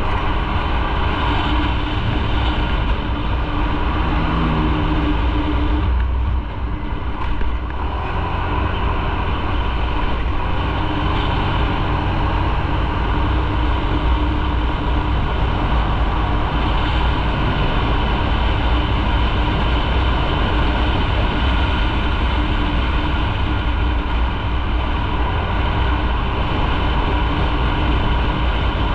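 Motorcycle engine running steadily under way, with wind and road noise; the engine eases off briefly about six seconds in, then picks up again.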